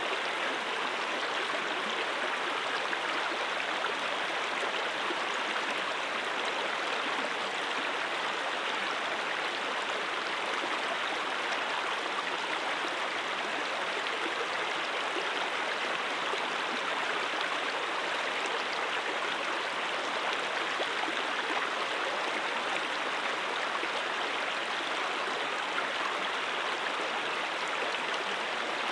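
Mountain stream flowing, a steady even rush of water with no breaks.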